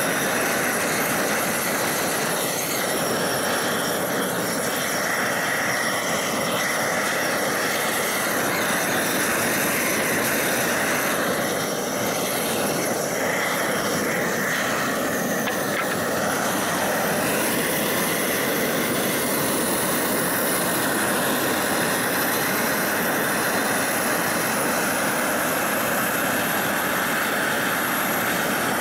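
Homemade propane roofing torch burning with a steady roar, melting bitumen roll roofing onto the garage roof.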